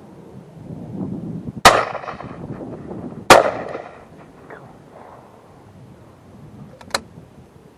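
Two shotgun shots about a second and a half apart, each with a short trailing echo, then a much quieter sharp click a few seconds later.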